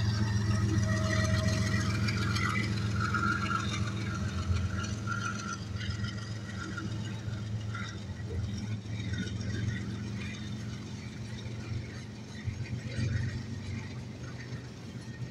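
Diesel locomotive (a CSX mid-train DPU helper unit) passing in a loaded hopper train, its engine a steady low hum that fades as it moves away, with wheels and cars rattling and clanking on the rails.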